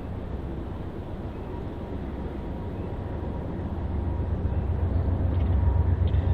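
Low, steady rumble of an approaching diesel freight train, growing louder about four seconds in.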